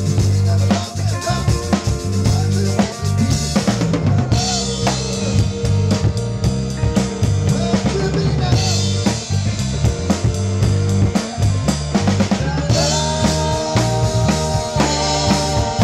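Live rock band playing, led by a drum kit with bass drum, snare and rimshots keeping a steady beat under bass guitar and electric guitars. Held melodic notes come in over the groove a few seconds before the end.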